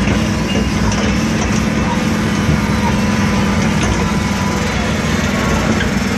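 Motor of a children's amusement-park helicopter ride running with a steady drone and low rumble.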